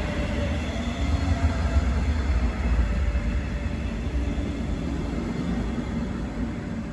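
A train passing on the track, a steady low rumble of wheels on rail that slowly fades near the end.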